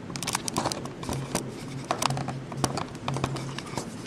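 Packaging being handled and opened: irregular crinkles, taps and clicks of paper and plastic wrapping.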